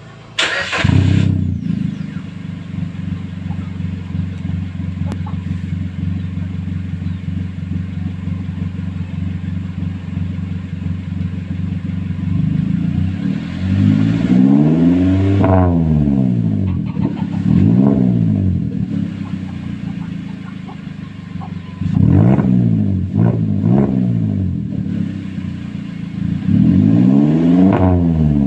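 Suzuki New Carry pickup's four-cylinder engine breathing through an aftermarket racing exhaust: it comes in about a second in, idles steadily, then is revved up and let fall back several times, including a quick run of short blips.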